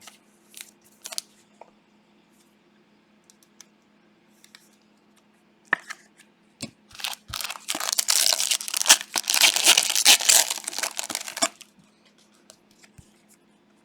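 A foil trading-card pack wrapper torn open and crinkled, a dense crackling tear lasting about four seconds in the second half, after a few light handling clicks.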